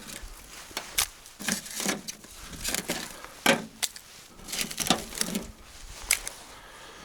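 Irregular wooden knocks and clatter, about a dozen sharp hits with short scrapes between, as old boards and junk are handled and dropped.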